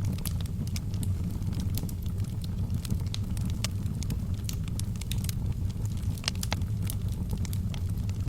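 Wood fire burning in a fireplace: logs crackling and popping in frequent, irregular sharp snaps over a steady low rumble.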